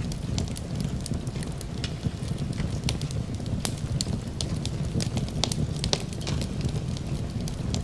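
Fireplace crackling, with frequent sharp pops and snaps over a steady low rumble.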